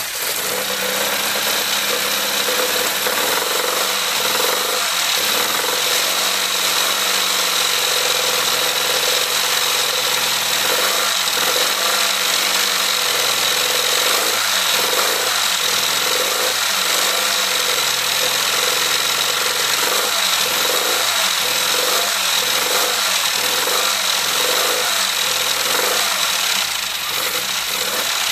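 Classic Mini 1380 A-series four-cylinder engine with a Piper 649 scatter camshaft running steadily on its first start. It runs with a slight misfire, traced to a spark plug whose gap had closed up.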